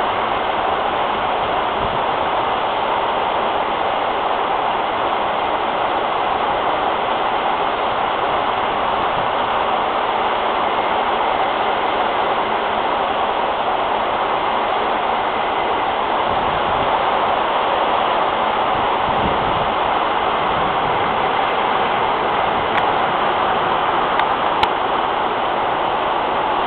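Heavy thunderstorm rain pouring down in a steady, even hiss, with a brief low rumble about two-thirds of the way through.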